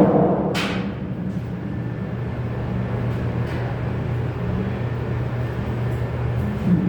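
A steady low mechanical hum, with a sharp knock at the start and a lighter click just after.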